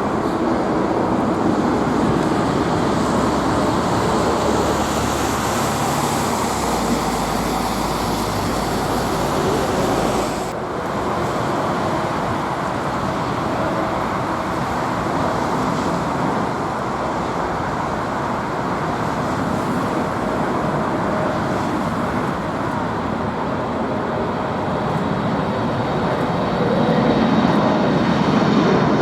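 Jet engines of a Boeing 747 giving a steady, continuous noise, with an abrupt cut about ten seconds in where the sound changes slightly and carries on.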